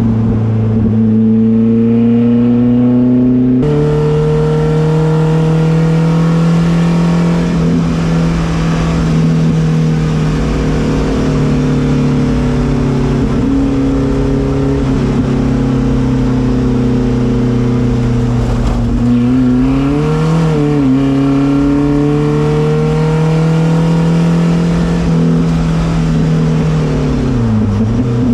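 Volvo 240 race car's engine running hard as it is driven at speed, its pitch holding steady for long stretches and rising and falling with throttle and gear changes. It wavers briefly about two-thirds of the way through and dips near the end.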